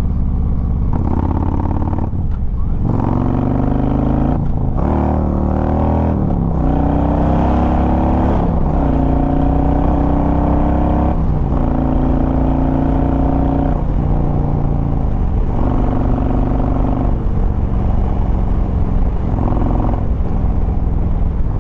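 Harley-Davidson Road Glide Ultra's V-twin pulling hard through the gears, its pitch climbing in repeated runs and dropping back at each of several shifts. The throttle is in a sharpened-response mode.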